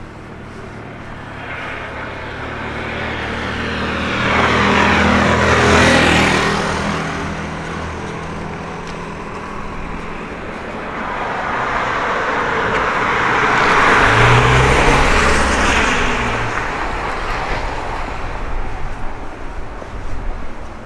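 Two cars driving past one after the other on a city street. Each grows louder, peaks and fades: the first about six seconds in, the second about fourteen seconds in.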